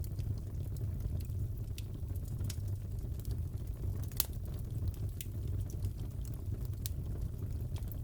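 Wood fire crackling in a fireplace: a steady low rumble with scattered sharp pops, one louder pop about four seconds in.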